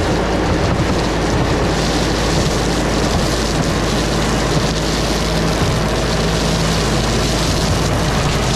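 LS MT357 tractor's diesel engine running steadily, a constant low hum under a rough, noisy rumble.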